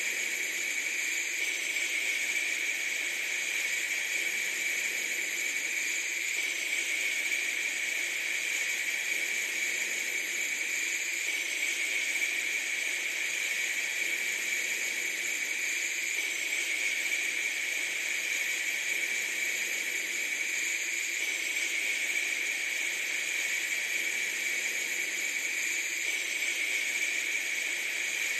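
Steady, even hiss with a slight shift about every five seconds.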